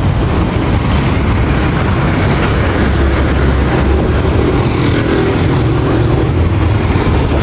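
Steady low rumble of a moving vehicle, with road and wind noise.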